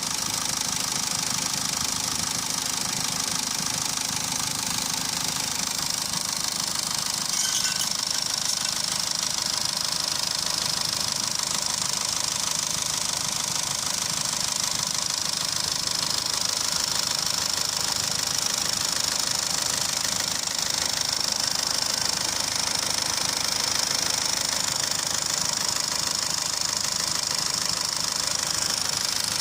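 Mazda RF2A four-cylinder diesel engine idling steadily.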